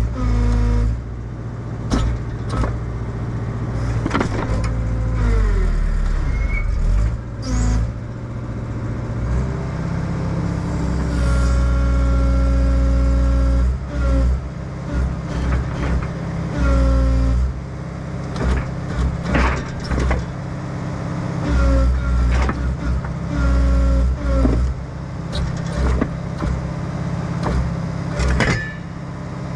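Excavator's diesel engine running and taking load as the hydraulics are worked, its note stepping up and down repeatedly, with frequent sharp metallic clanks and knocks.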